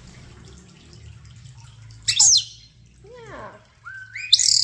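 Pet European starlings whistling: a sharp, loud whistle sliding downward about two seconds in, then near the end a loud whistle that climbs in steps to a high pitch, over a low steady hum.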